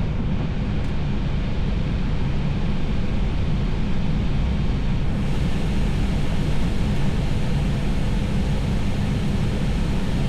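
Airliner cockpit noise during the initial climb after takeoff: a steady, loud low rumble of engines and airflow, with a little more high hiss coming in about halfway through.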